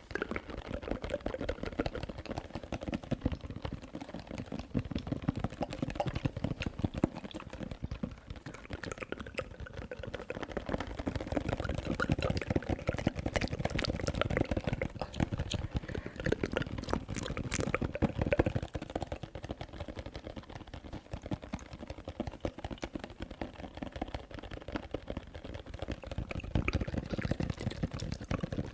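ASMR tapping and wet mouth sounds: a dense, continuous run of quick clicks and taps with no real pauses.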